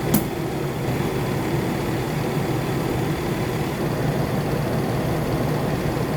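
Chevrolet Express van running, a steady low engine hum, with one short click right at the start.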